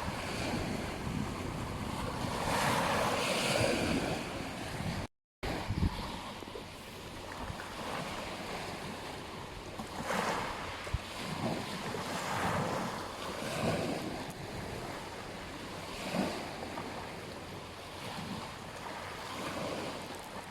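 Ocean surf washing onto a beach, a steady rush that swells as each wave breaks every couple of seconds, with wind buffeting the microphone. The sound cuts out completely for a moment about five seconds in.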